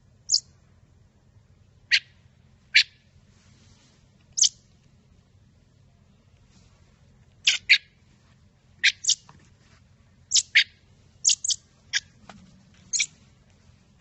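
Fledgling songbird giving short, sharp high chirps, about fourteen in all, scattered irregularly and some in quick pairs.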